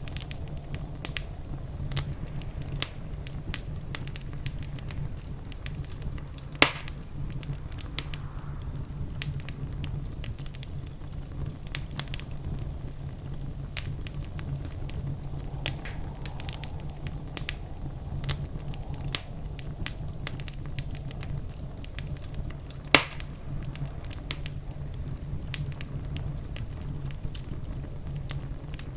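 Wood fire in a fireplace crackling, with frequent small snaps over a steady low rumble. Two louder pops stand out, one about a quarter of the way in and one about three quarters of the way in.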